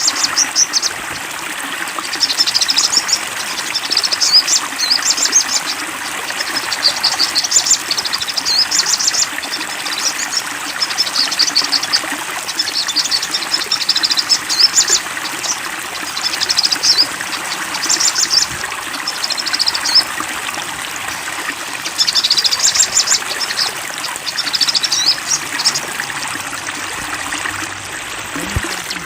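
A songbird singing short, fast phrases of quick high chattering notes, repeated a second or two apart, over the steady rush of flowing water. The song stops a few seconds before the end while the water runs on.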